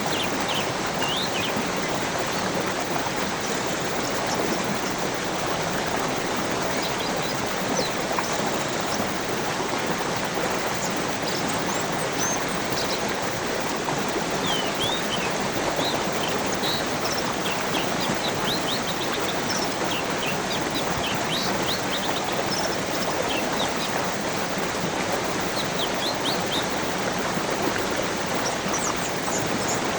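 Steady rushing of a stream, with small birds chirping over it: short, high, quick notes now and then, sometimes in rapid runs.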